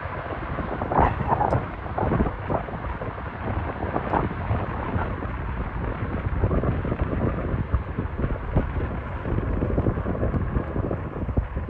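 Strong gusty wind buffeting the microphone, in irregular blasts over a constant low rumble.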